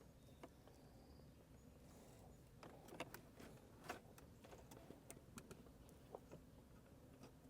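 Near silence with scattered faint clicks and taps of plastic connectors and wiring being handled and fitted into place, a few slightly louder around the middle.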